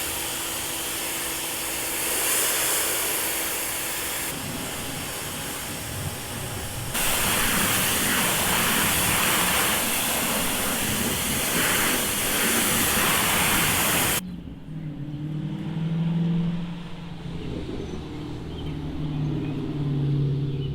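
High-pressure water spray from a pressure-washer wand hitting a car's bodywork: a loud, steady hiss that shifts in strength a couple of times and cuts off suddenly about fourteen seconds in. Fainter, lower sounds with some pitched tones follow.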